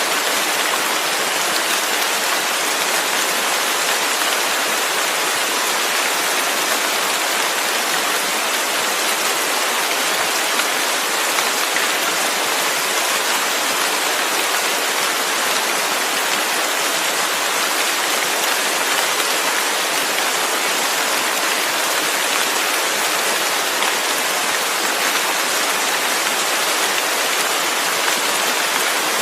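Steady rainfall, an even hiss of rain with no breaks or distinct drops standing out.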